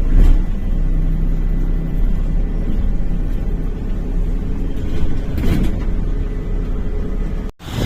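A loud, steady low rumble, with a brief hiss about five and a half seconds in.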